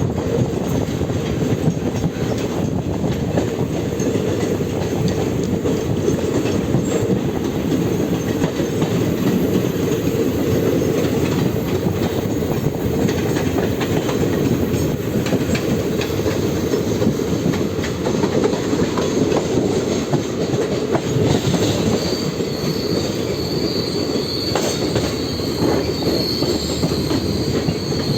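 Train running on the rails, a steady dense rumble of wheels on track. About three quarters of the way through, a thin high wheel squeal starts and carries on.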